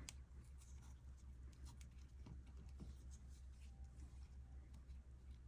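Near silence: faint scratches and small ticks of yarn and a crochet hook being handled, over a steady low hum.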